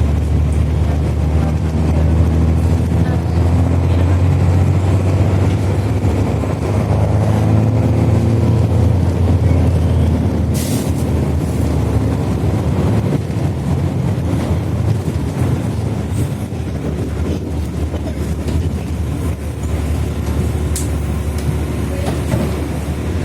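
Mercedes-Benz OH-1420/51 city bus's diesel engine with a free, muffler-less exhaust, pulling under load up a grade, its note rising over the first several seconds before running on steadily. A brief sharp hiss or click comes about ten seconds in.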